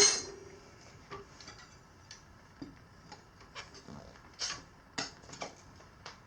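Steel tire iron striking the wheel rim with one loud metallic clank and a brief ring right at the start, then scattered light clicks and taps of metal tools on the rim as a stiff knobby tire bead is levered on.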